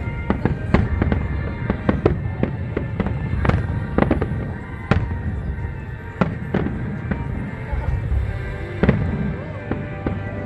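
Fireworks display: a run of sharp bangs and crackling bursts at irregular intervals, several a second at times, over low rumbling, with music playing throughout under the explosions.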